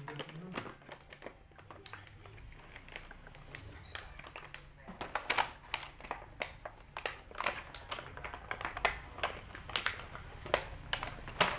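Irregular clicking and tapping of small plastic toy hair accessories and salon-set pieces being handled, with some crinkling.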